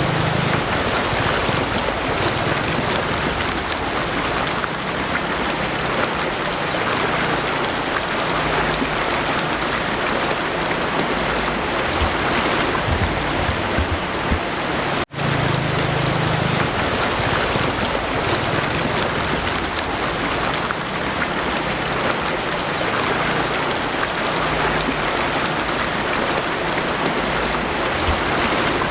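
Steady rain falling over a rushing mountain stream with small waterfalls, an even hiss of water throughout. The sound breaks off for an instant about halfway through.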